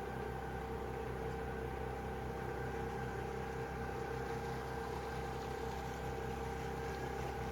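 Bristol 27 sailboat's engine running steadily under way, a constant drone with a few steady tones over a low hum.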